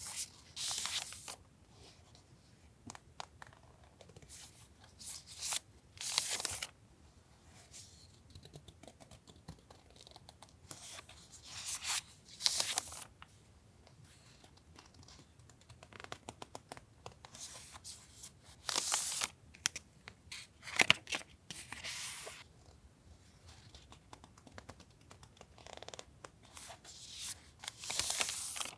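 Paper and plastic stationery packaging being handled and torn open: a series of short rustling, tearing strokes with pauses and a few light taps between them.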